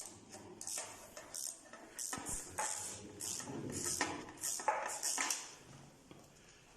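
Light clinks and rattles of small metal tools or parts being handled, about a dozen short knocks in quick irregular succession that die away after about five seconds.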